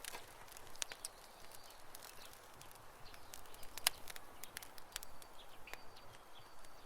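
Campfire burning, the wood crackling with irregular sharp pops and snaps over a soft hiss. The loudest pop comes about four seconds in.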